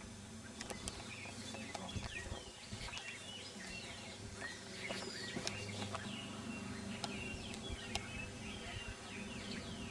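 Birds chirping and calling, many short quick chirps overlapping through the whole stretch over a faint steady background hum.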